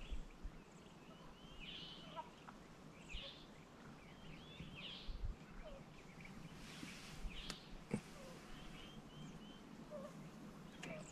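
Small birds chirping and singing in short phrases every second or two over a faint low rumble, with a sharp click about eight seconds in.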